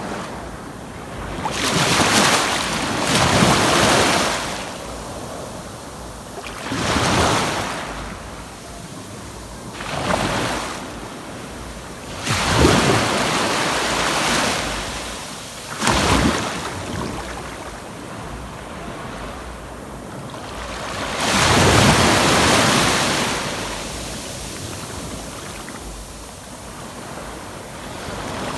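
Ocean waves breaking on a sandy beach, about six surges each a second or two long, a few seconds apart, with a steady hiss of surf between them.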